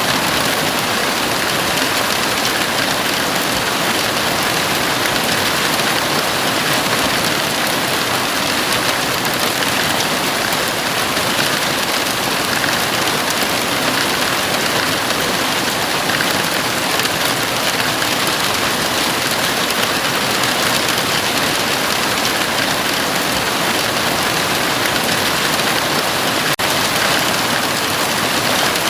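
Heavy rain falling steadily on a house roof, a dense, even hiss.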